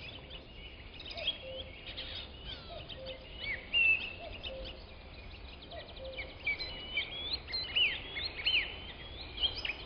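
Several small birds chirping and singing in quick, overlapping phrases over a steady background hiss, with a soft low note repeating about once a second.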